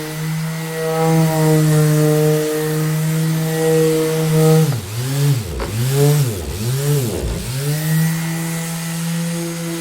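Electric orbital sander running with a steady motor hum. About halfway through, its pitch dips sharply and recovers three times in quick succession as the motor slows and picks up again, then it settles back to its steady speed.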